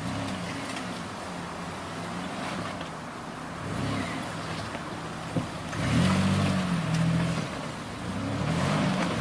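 A 4x4 SUV's engine running under load off-road, its revs rising and falling several times, loudest about six seconds in and again near the end.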